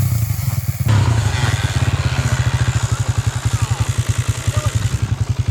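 Dirt bike engine running with a steady, even chuffing pulse.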